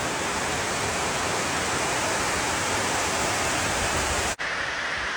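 Heavy rain falling in a steady, even downpour. About four seconds in, the sound drops out for an instant and returns as a slightly different, steady rain noise.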